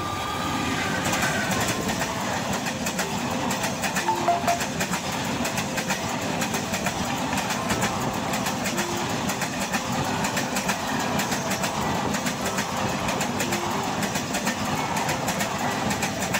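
Passenger train hauled by an electric locomotive passing close by. The sound grows louder about a second in as the locomotive goes past, then a long run of coaches follows, their wheels clattering rapidly over the rail joints over a steady rumble.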